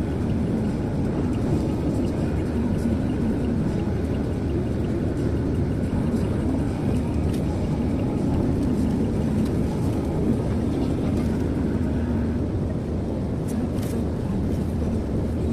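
Steady road and engine noise heard from inside a moving car's cabin, an even low rumble of tyres and engine at cruising speed.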